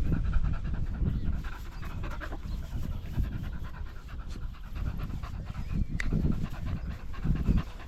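Dogs panting while they settle down after being stressed. A single sharp click comes about six seconds in.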